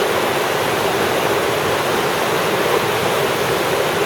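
Steady, loud rush of water pouring over a river waterfall and its cascades.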